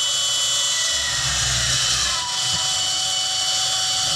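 Bandsaw running and cutting through a steel exhaust pipe, a steady high-pitched whine with a low rumble; about two seconds in, one of its tones slides lower.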